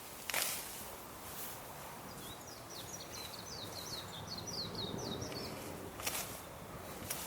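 A wild bird sings one quick phrase of about ten short, high, chirping notes in the middle, over a steady low outdoor hum. Brief sharp crunching rustles in dry grass come near the start and twice near the end.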